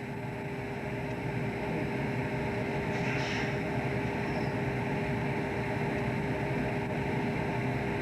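Fishing boat's engine and machinery droning steadily with a constant hum. A brief hiss comes about three seconds in.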